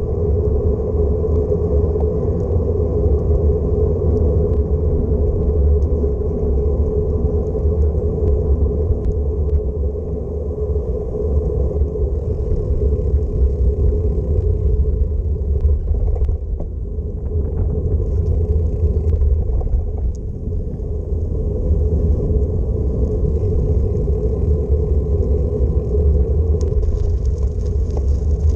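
Steady low rumble of wind buffeting the microphone on a moving bicycle, mixed with the constant hum of rolling over the road.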